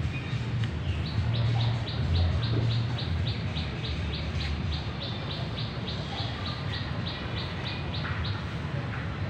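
A bird repeating one short, high chirp over and over, about four a second, starting about a second in and stopping shortly before the end, over a steady low rumble.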